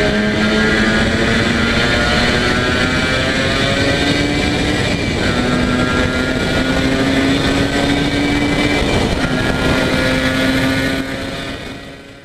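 Yamaha TZR250 3MA two-stroke parallel-twin engine running at a steady speed through expansion chambers, its pitch rising slightly now and then. It fades out near the end.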